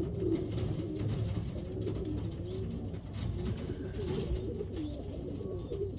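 Racing pigeons in a loft cooing, many overlapping low coos going on steadily.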